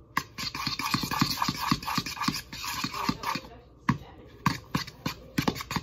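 A utensil scraping and clicking against a dish as microwaved eggs are broken up and mixed, in quick irregular strokes with a short lull a little past the middle.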